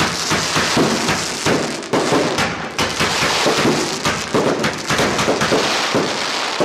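Fireworks going off in a rapid, unbroken barrage of sharp cracks and bangs, dense like crackling rain.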